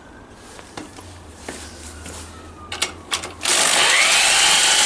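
A few small clicks, then about three and a half seconds in an electric starter motor begins cranking the old engine with a loud whirr and a whine that rises and then holds. The engine turns over without firing: there is no spark at the plug.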